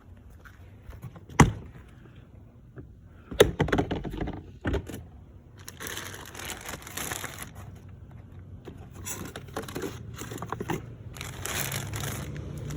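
Handling noises: a sharp knock, then a quick cluster of knocks, then rustling and crinkling that comes and goes.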